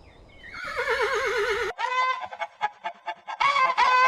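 A goat's long bleat with a wavering pitch. Then, after an abrupt cut, domestic fowl give a rapid run of short, loud honking calls, loudest near the end.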